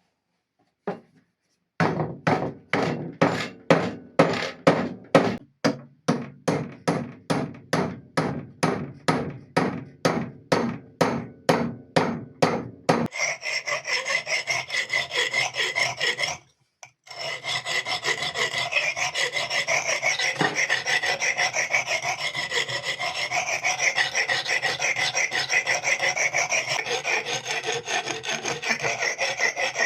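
Hand file worked in regular scraping strokes, about two and a half a second at first, then faster and steadier after a short break about halfway through.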